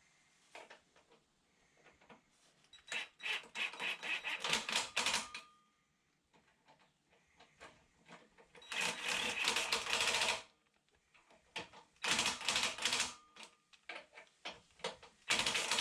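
Hand ratchet wrench clicking in four spells of rapid clicks, tightening the fastenings of a VW T3's exhaust silencer as it is mounted.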